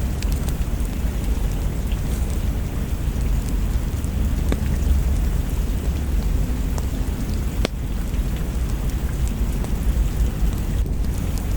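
Steady rain with a deep, continuous low rumble underneath. A few sharp pops are scattered through, like crackles from a log fire.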